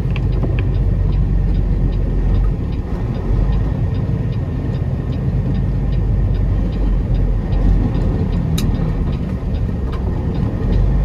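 Semi truck's diesel engine running steadily under way, with road noise heard from inside the cab and faint regular ticking above the low rumble.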